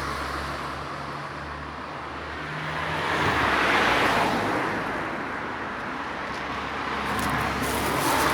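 Road traffic: cars passing on a nearby road, one swelling up and fading away about four seconds in and another coming up near the end, over a low steady rumble.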